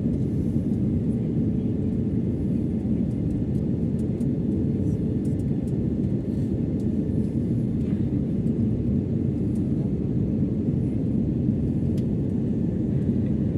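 Steady cabin noise of a jet airliner: an even, low rumble of engines and airflow heard from inside the passenger cabin.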